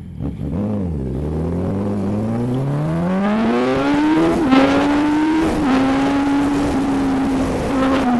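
Motorcycle with a sport exhaust accelerating: a short throttle blip, then the engine note climbs steadily for about three seconds, drops slightly at a gear change and holds a steady cruise, with brief dips near the end.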